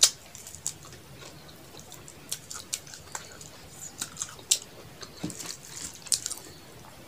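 Close-up wet chewing and mouth smacks of someone eating rice and curry by hand, with scattered short clicks and smacks. The sharpest comes right at the start and another about four and a half seconds in.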